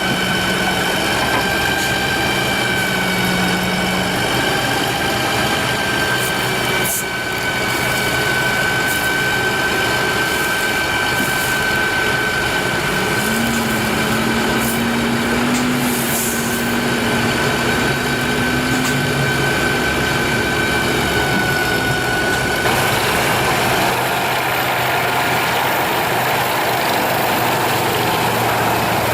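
A heavy machine's engine running steadily, with a constant high-pitched whine over a low hum. About 23 s in, the sound turns harsher and noisier.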